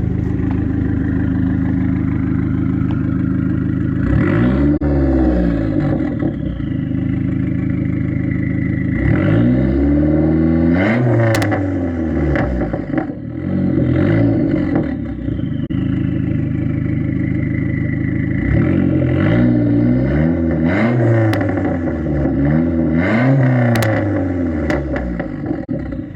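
Dodge Neon SRT-4's turbocharged four-cylinder engine idling and being free-revved several times, each rev rising and falling. A loud turbo whistle winds down after the revs, and sharp backfire pops come off the throttle a few times.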